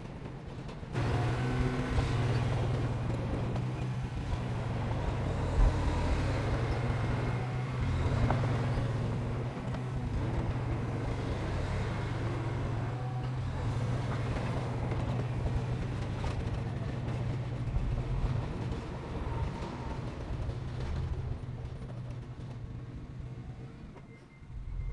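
Heavy construction machine's diesel engine running under load, a steady low drone that comes in about a second in and fades near the end, with one sharp knock a few seconds in.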